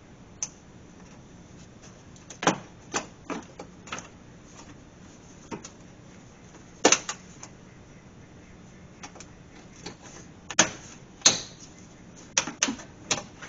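Plastic engine undercover and its push-in quarter-turn fasteners being fitted: a dozen or so irregular sharp clicks and knocks, a few close together near the end.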